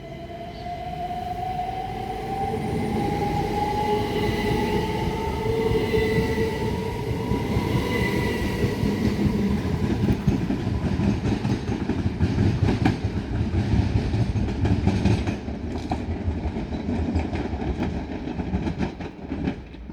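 Class 375 Electrostar electric multiple unit pulling away, its traction motors whining with a steadily rising pitch over the first several seconds. As the carriages pass, the wheels rumble and clatter over the rail joints, then the sound falls away near the end.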